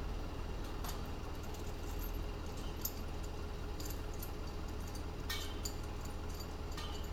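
Light metallic clicks and clinks of steel scaffolding pipes and fittings being handled as the scaffold is dismantled, scattered irregularly over a steady low rumble.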